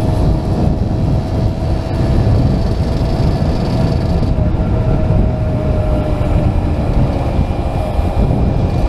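Small classic motorcycle or moped engine running steadily at cruising speed, heard through heavy wind rumble on a helmet-mounted camera.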